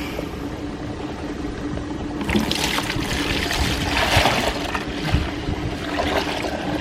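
Bucket of seawater being poured into a washing-up bowl, splashing for about three seconds from around two seconds in.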